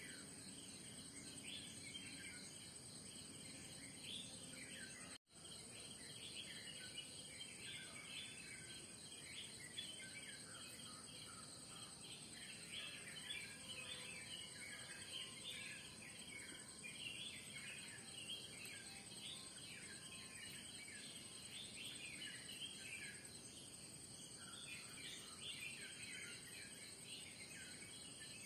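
Many birds chirping and calling in a dense morning chorus, over a steady high insect drone. The sound cuts out completely for a moment about five seconds in.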